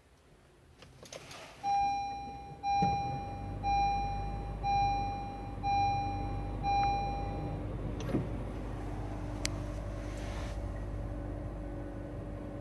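A Honda hybrid's push-button power switch is pressed with a click. A dashboard chime then beeps six times about a second apart, while a low steady hum from the car comes on and keeps running.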